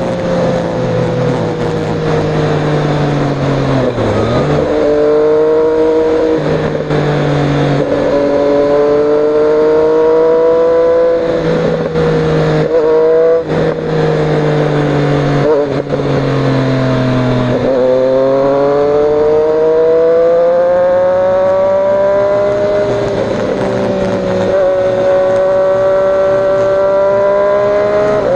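Triumph Street Triple 765 RS inline-three engine through an Austin Racing de-cat slip-on exhaust, its pitch rising and falling over and over with several sudden breaks along the way.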